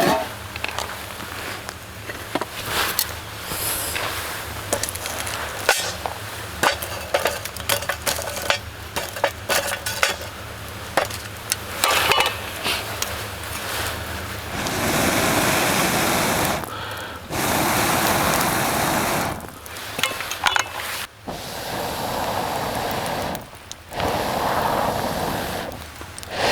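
A run of light clinks and knocks, like camp gear or cookware being handled, then stretches of steady rushing noise, typical of wind, that start and stop abruptly several times.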